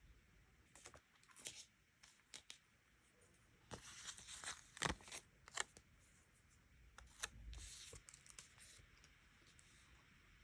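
Quiet handling of paper and stickers: scattered rustles, peels and small clicks in short clusters, busiest in the middle and again later on.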